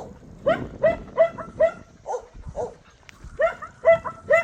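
A dog barking repeatedly in short barks: a run of about six, a brief pause, then three more.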